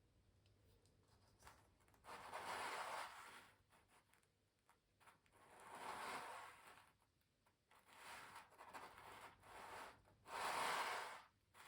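Pencil drawing across canvas, a dry scratching in several long strokes of about a second each with short pauses between.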